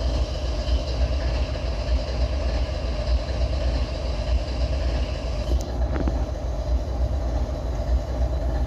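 Diesel locomotive running steadily, a continuous low rumble with a steady hum above it.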